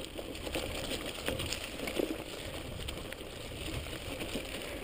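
Electric mountain bike rolling along a dirt trail: tyres on the ground with scattered small knocks and rattles from the bike, over a low wind rumble on the microphone.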